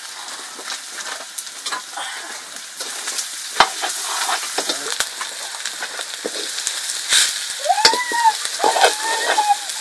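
Food sizzling and frying in a pan while it is stirred, the utensil clicking and scraping against the pan now and then. Near the end, a few short pitched calls that arch up and down are heard over the frying.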